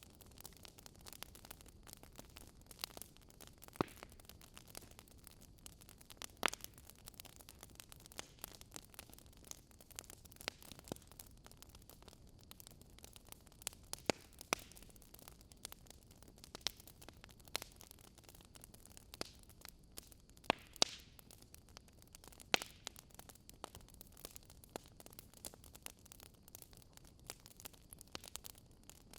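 Wood fire crackling: irregular sharp pops and snaps over a faint steady hiss, a few pops louder than the rest.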